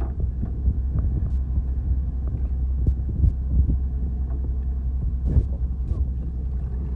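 Fishing boat's engine running steadily with a low rumble, with wind noise on the microphone and a few scattered knocks.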